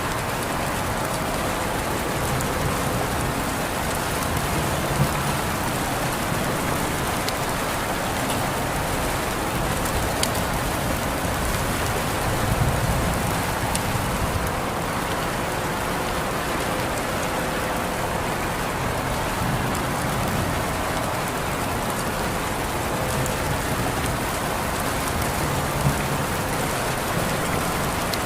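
Steady, heavy rain falling, an even hiss with scattered sharper drop hits, two of them standing out, about five seconds in and near the end.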